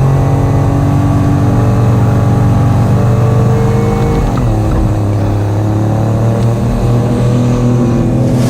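Ford Raptor's 3.5-liter twin-turbo EcoBoost V6 running under steady load while driving through sand dunes. The engine note eases briefly about four seconds in, then holds steady again.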